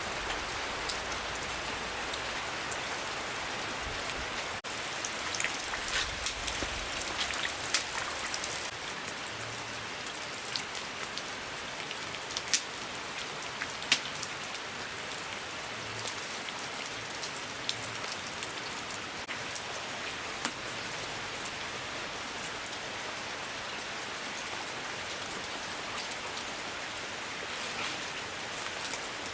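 Rain falling steadily, with scattered louder drops striking now and then.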